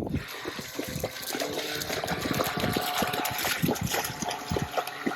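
Water splashing and gushing, with a sudden start and lots of small knocks and sloshes throughout.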